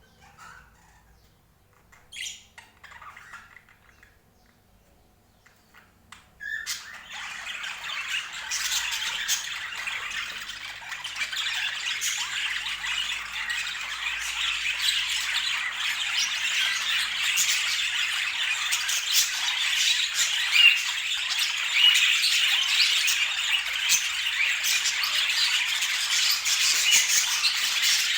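Budgerigars chattering: a few single calls about two seconds in, then a dense, unbroken chatter of many birds from about six seconds in that slowly grows louder.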